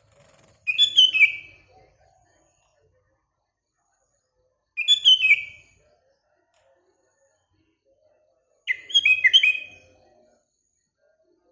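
Sooty-headed bulbul (kutilang) singing three short phrases of quick falling notes, each about a second long and roughly four seconds apart.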